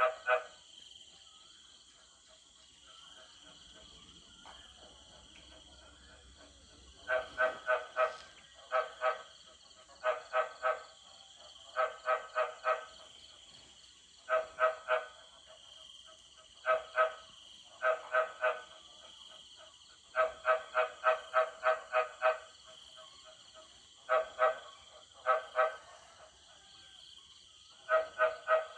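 Frogs croaking in repeated bouts of short, pitched croaks, two to seven in quick succession at about three a second, with a bout every second or two. A steady high-pitched chorus runs behind.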